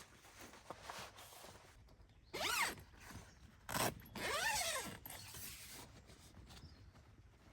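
A zipper pulled in two quick strokes, each a rasp that rises and falls in pitch, with a sharp click just before the second.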